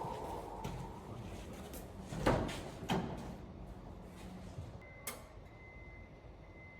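Two knocks about half a second apart, then a sharp click a couple of seconds later. A faint steady high tone comes on just before the click and keeps going.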